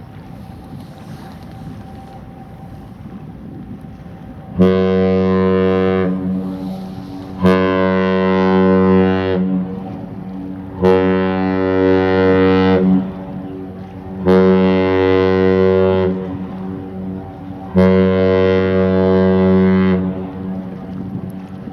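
Ship's horn sounding five blasts, each about one and a half to two seconds long and roughly three seconds apart, a deep steady tone with many overtones. Wind noise rumbles underneath.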